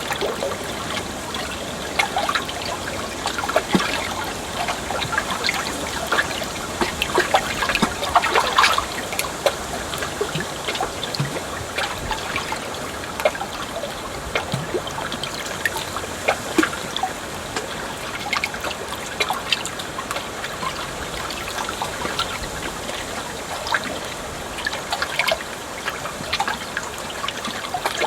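Water trickling and splashing steadily, a dense patter of many small splashes over a continuous rush, a little louder about eight seconds in.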